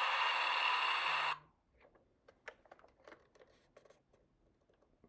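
Electronic sound effect from a toy bulldozer's small speaker, noisy with sliding tones, cutting off suddenly about a second and a half in. Then only faint scattered clicks and taps.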